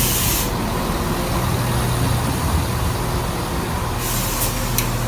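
Class 170 Turbostar diesel multiple unit running through the station with a steady low engine drone. There are short hisses of air right at the start and again about four seconds in.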